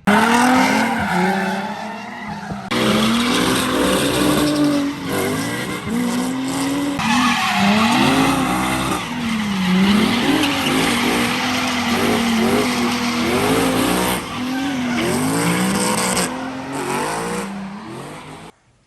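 A car drifting: its engine revs up and down again and again while the tyres squeal and scrub continuously.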